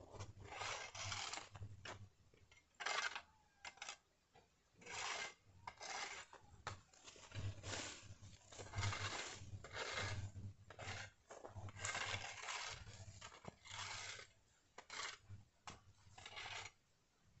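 Repeated scraping and rubbing strokes of a hand tool on a rough surface, coming irregularly, some short and some about a second long.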